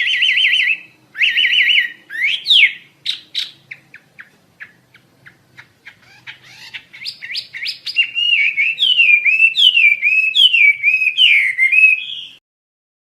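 Hwamei (wambi) songbird singing a loud, varied song: quick trills first, then a run of sharp separate notes, then looping whistled phrases. The song stops abruptly about twelve seconds in.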